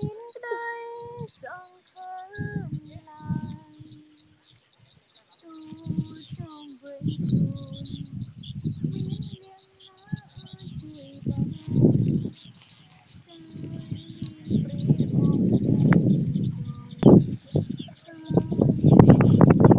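Small birds chirping rapidly and continuously in a high register, with gusts of wind buffeting the microphone as a low rumble that comes and goes and is strongest near the end.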